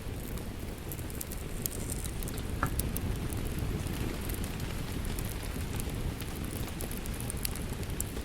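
Steady rain falling, mixed with a crackling wood fire whose sharp pops and snaps come at irregular moments.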